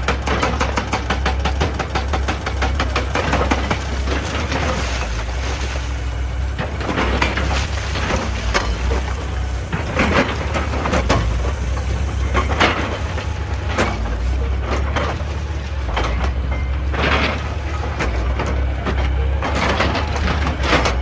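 Excavator's diesel engine running steadily under load, with irregular clanks, knocks and scrapes of the bucket and of rock breaking and tumbling.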